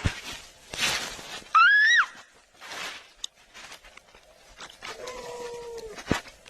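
A cat's short, high meow that rises in pitch and breaks off, between breathy, hiss-like noise bursts. Later comes a steady, slightly falling tone about a second long, then a sharp click.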